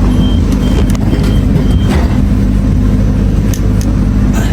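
Steady low hum of a running public-transport vehicle, with four short high-pitched beeps in the first two seconds.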